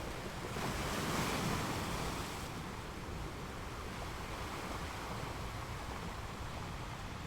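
Ocean waves: one wave breaks about half a second in and surges for a couple of seconds, then settles into a steady wash of surf.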